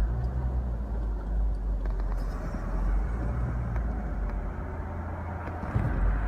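Car engine running at low revs, a steady low drone that gets a little louder near the end.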